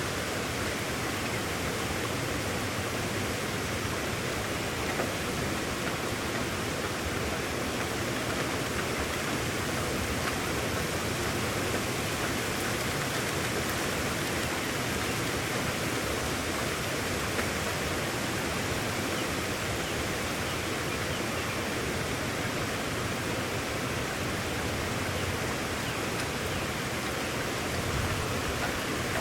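Heavy rain storm falling as a steady, even hiss, with no distinct drops or breaks.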